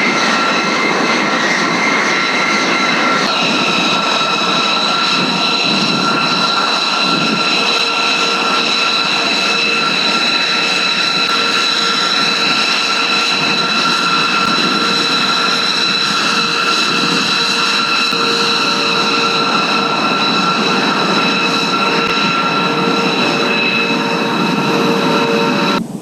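Steady jet engine noise: a loud rush under several high whining tones, one of which steps up in pitch about three seconds in. It cuts off suddenly at the end.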